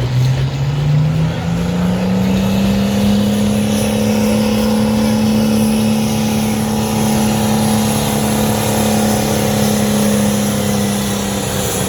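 A pulling vehicle's engine runs loud under full throttle during a pull down the track: it revs up sharply over the first two seconds, then holds a steady high pitch, easing off slightly near the end.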